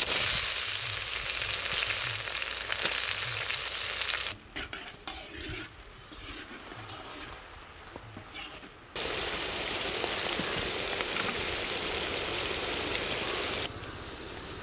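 Sliced onions and chopped green chillies sizzling in hot oil in a large wok over a wood fire. The sizzle is loud at first, drops away for several seconds in the middle, then returns steady before cutting off near the end.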